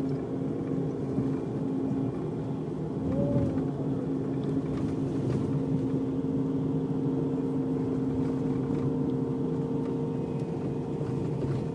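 Scania Irizar PB coach running at a steady cruise, heard from inside the passenger cabin: an even engine and road drone. A faint short tone rises and falls about three seconds in.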